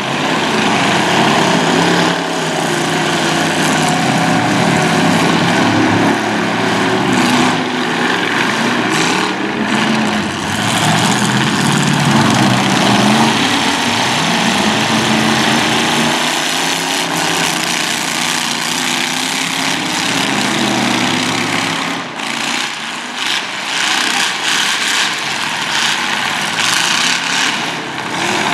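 Several demolition derby cars' engines running and revving together, rising and falling in pitch, with a few sharp knocks of impacts. The revving eases off about three-quarters of the way through.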